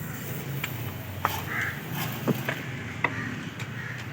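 A short call from a bird about a second and a half in, among a few sharp clicks and light knocks.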